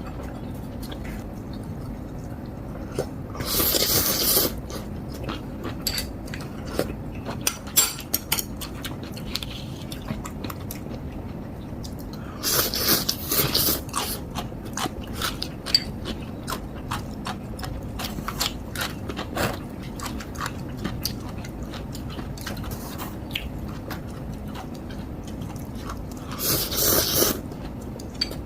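Close-miked eating of ramen noodles: chewing with many small wet clicks, and three louder noodle slurps of about a second each, near the start, in the middle and near the end.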